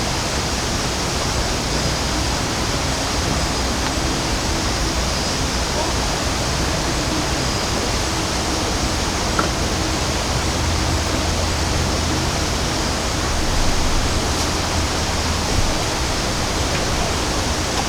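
Steady rushing water noise, even and unbroken, with no separate drops or strokes standing out.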